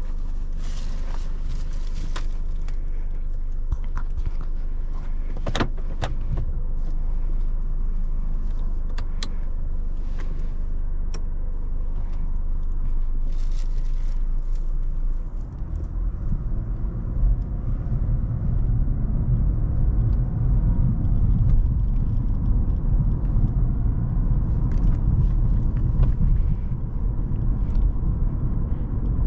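Cadillac CTS 3.6-litre twin-turbo V6 and road noise heard from inside the cabin while driving, a steady low rumble with a few light clicks. About halfway through the rumble grows louder and rougher and stays so.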